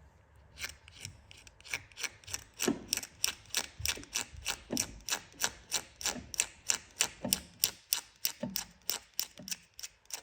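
Razor blade scraping back and forth across cured JB Weld on a propeller shaft, an even rasping stroke about three to four times a second, starting under a second in. The blade is shaving the high spots off the epoxy filling the worn seal groove.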